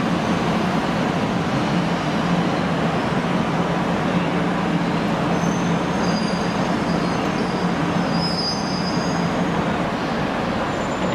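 Abukuma Railway 8100 series electric train running slowly at a station platform: a steady rumble and hum. Brief high squeals, typical of wheels or brakes, come in around the middle.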